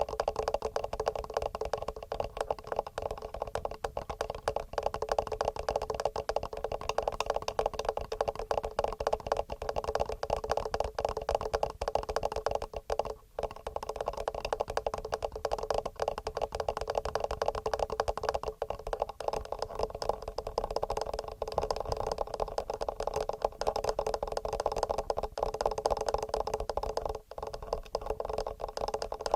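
Fast, continuous fingernail tapping on a TASCAM handheld recorder's built-in microphones: a dense clatter of clicks, broken by two brief pauses, one about halfway through and one near the end.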